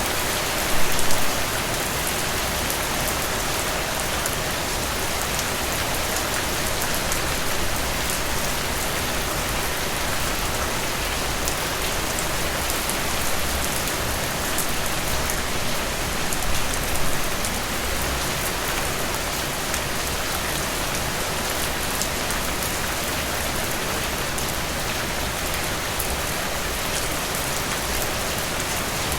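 Heavy rain falling steadily, an even hiss with many individual drops ticking through it. There are brief louder swells about a second in and again just past the middle.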